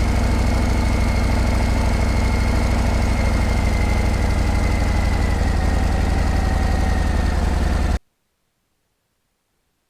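Harley-Davidson Breakout's V-twin engine idling with a steady, even exhaust beat, cutting off suddenly about eight seconds in.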